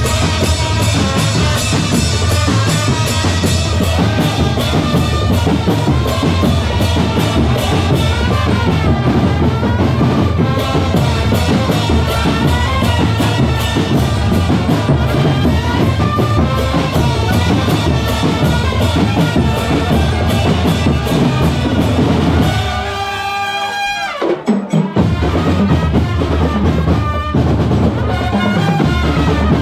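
Drum corps playing a fast march with bass drum, snare and drum rolls under a melody. About three quarters of the way through, the drums stop briefly while a few held notes sound, then the full band comes back in.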